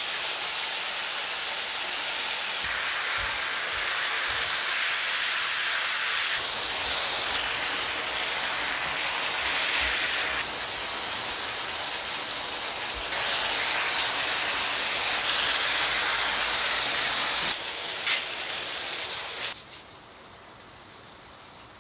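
Spicy marinated pork, squid and green onions sizzling as they stir-fry in a frying pan, a steady frying hiss. It drops much quieter near the end.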